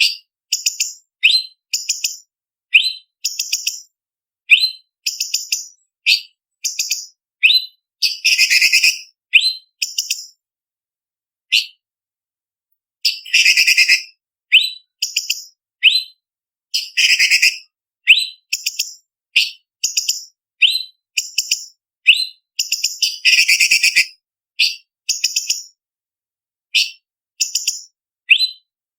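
Cucak cungkok leafbird singing: a quick string of short, sharp, high whistled chirps about a second apart, broken four times by longer harsh, rattling phrases. The gaps between the notes are completely silent.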